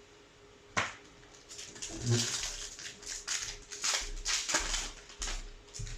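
Hands handling a Yu-Gi-Oh! booster pack and its cards: a sharp click about a second in, then a run of short rustles of paper and foil.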